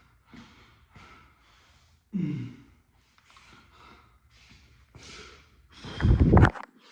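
A man breathing hard in short, hissing breaths, tired out by an ab exercise, with a falling, groaning sigh about two seconds in. A loud burst comes near the end.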